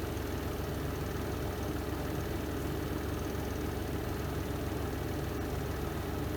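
Spin drum of a Renova semi-automatic twin-tub washing machine running steadily through its spin cycle, a low, even hum.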